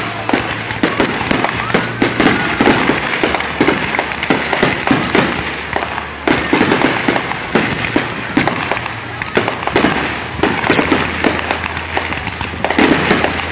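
Aerial fireworks bursting: many loud bangs and crackles in quick succession, with hardly a gap.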